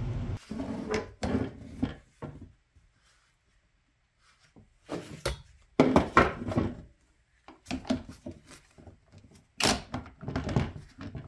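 Clunks, knocks and clattering of parts and tools being handled on a workbench, in three bursts with short quiet gaps between them.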